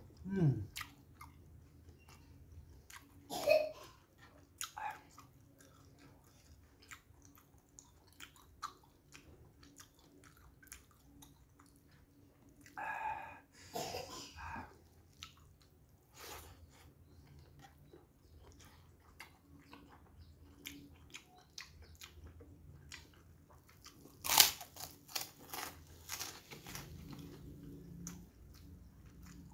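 A person chewing and biting food with his mouth, with wet smacking and scattered crisp crunches. A few bites stand out louder, the loudest about 24 seconds in.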